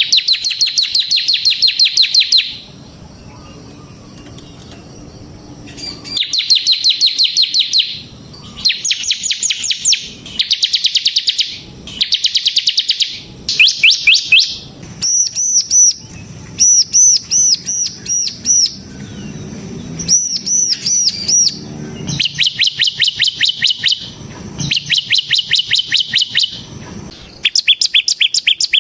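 Bar-winged prinia (ciblek) singing: loud bursts of very fast, high repeated notes, each burst lasting about two seconds, with short pauses between them. Midway the song changes to a run of higher, arched notes repeated in quick groups before the fast bursts return.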